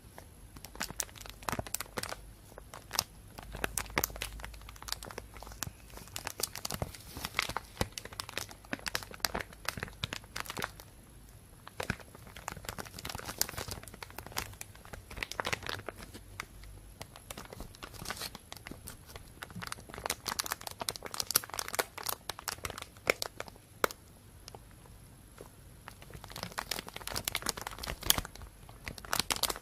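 Thin plastic bag crinkling and rustling close to the microphone: dense, irregular crackles that ease off in a few quieter stretches and pick up again.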